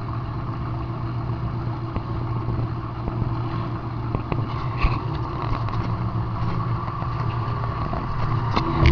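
Demolition derby car's engine running steadily, heard from inside the car, with a few sharp knocks and rattles, the loudest near the end.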